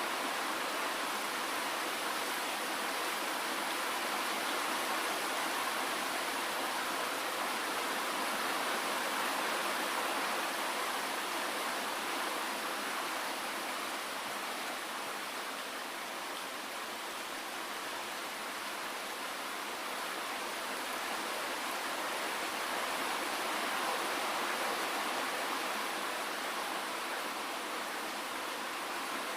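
Steady rain falling, a dense even hiss of drops with no single drops standing out, swelling and easing gently in loudness.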